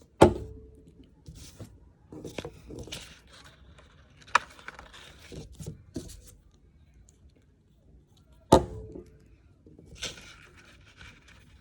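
Paper craft pieces being handled and glued on a tabletop: scattered rustling and scraping, with two sharp knocks that ring briefly, one right at the start and one near the end.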